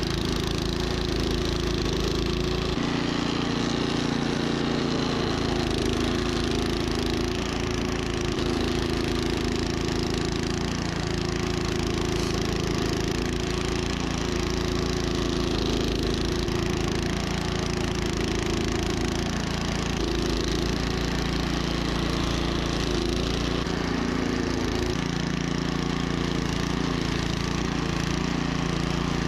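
Troy-Bilt snowblower's gas engine running steadily, its pitch shifting slightly a few times as the load changes.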